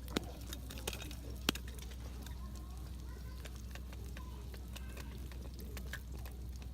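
Wood campfire crackling, with scattered sharp pops, the loudest about a second and a half in.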